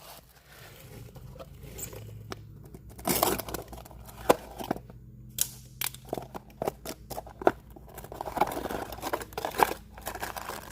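Irregular clicks, knocks and scrapes of a tool and small metal parts being handled as the drain plugs are taken out of a dirt bike's engine, over a low steady hum.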